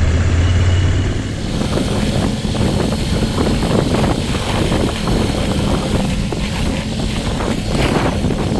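Motorcycle engine running, with wind and rough rumbling on the microphone. A strong low engine note drops away about a second in, leaving a lighter steady engine sound under the noise.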